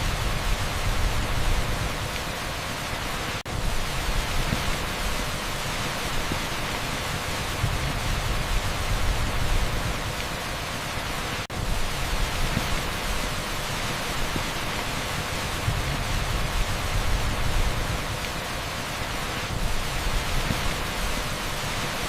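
Torrential rain pouring on an asphalt street: a dense, even hiss with a low rumble that swells and fades every few seconds. It briefly drops out twice, about eight seconds apart.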